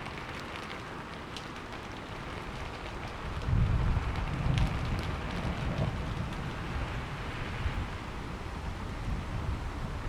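Steady rain falling, with a low roll of thunder rumbling in about a third of the way through and dying away slowly.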